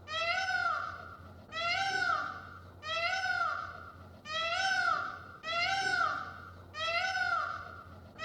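A cat meowing over and over: about six alike, high-pitched meows, each rising and then falling in pitch, one about every second and a quarter.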